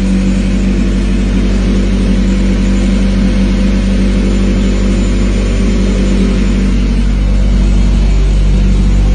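Honda H22 2.2-litre four-cylinder engine in a Civic idling steadily through a loud exhaust that is awaiting muffler-shop work.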